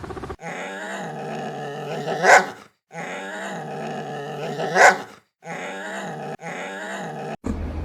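An animal's drawn-out pitched call, held about two seconds and sweeping sharply upward at the end. It comes twice in identical form, cut off abruptly each time, then a shorter call follows.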